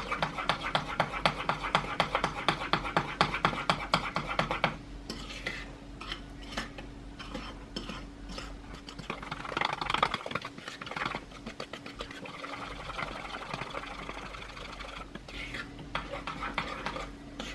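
A utensil being worked round a mixing bowl to mix sugar into a grainy caramel-like mixture: quick, steady scraping and clinking for the first few seconds, then slower, sparser scrapes and knocks.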